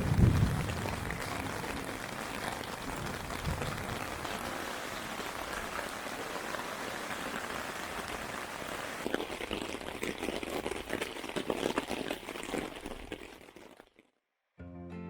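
Steady hiss and crackle of water that fades out near the end, followed by a brief silence. Acoustic guitar music then starts just before the end.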